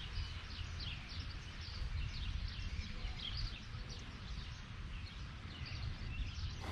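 Birds chirping: many short, high, quickly falling calls repeating, over a steady low rumble.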